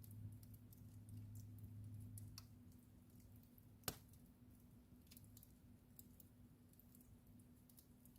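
Wood fire in a fireplace crackling softly, with scattered small pops and one sharper snap about four seconds in, over a faint low hum.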